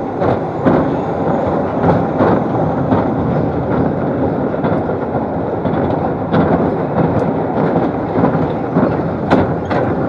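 An amusement-ride train running along its track: a steady rattling rumble with irregular sharp clicks from the wheels and cars.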